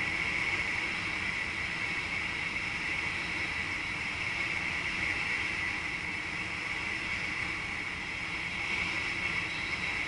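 Steady running noise of a VIRM double-deck electric intercity train heard from inside the driver's cab: an even hiss with a constant higher-pitched band in it, holding the same level throughout.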